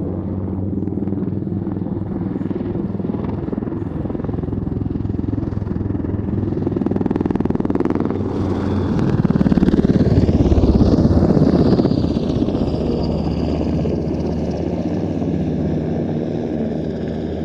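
Turbine aircraft running and passing, its noise swelling to a peak about ten seconds in while a high whine falls in pitch, then easing off again.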